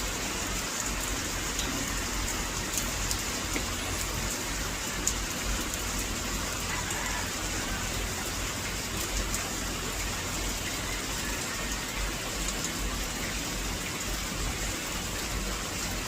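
Steady hiss of rain pattering, with scattered small ticks throughout.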